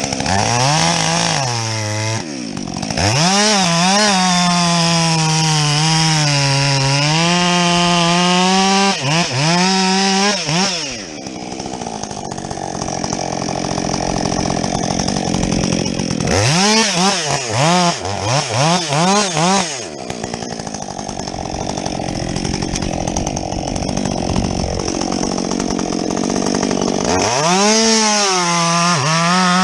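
Husqvarna 562XP two-stroke chainsaw with a modified muffler cutting through logs: it revs up and holds a high steady pitch under load for several seconds at a time, dropping back to idle between cuts with quick blips of the throttle.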